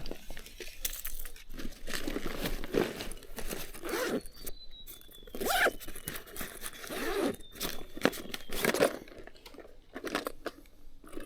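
Irregular crunching and crinkling noises, coming in short bursts throughout.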